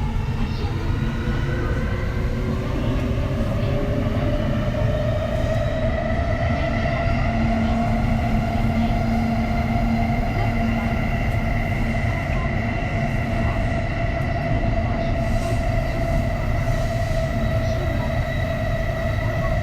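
A Kintetsu 3220 series train's Hitachi IGBT VVVF inverter and traction motors whine while the train runs, heard over the steady low rumble of wheels on rails. The whine rises in pitch over the first several seconds as the train picks up speed, then levels off into steady tones.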